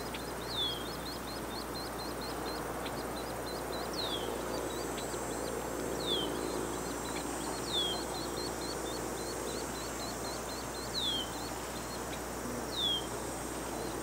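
Wild birds calling: a short high call sliding downward, repeated every couple of seconds, over a fast running series of tiny high chirps. A thin steady high tone sits in the background.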